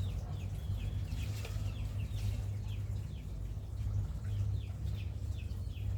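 Birds chirping repeatedly, many short falling chirps several times a second, like chicks peeping, over a steady low hum.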